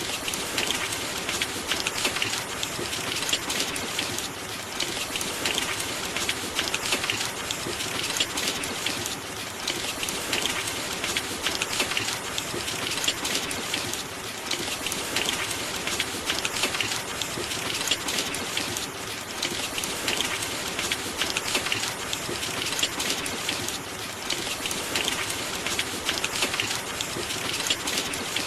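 Steady heavy rain, a dense patter of drops on surfaces that swells and eases slightly every few seconds.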